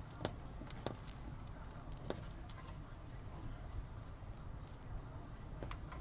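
Hands working a spin-on oil filter onto the engine: scattered light clicks, taps and rubbing of handling over a low steady background hum.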